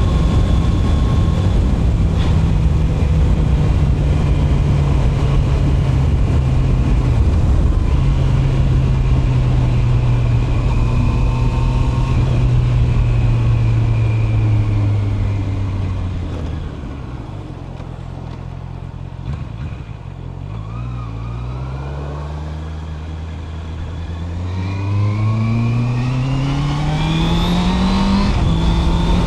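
Honda CB650R inline-four engine and exhaust while riding, with wind noise. The engine first runs steadily at cruising revs, then the revs fall and it runs quieter for several seconds as the bike slows. Near the end the revs climb smoothly under acceleration, with a gearchange just before the end.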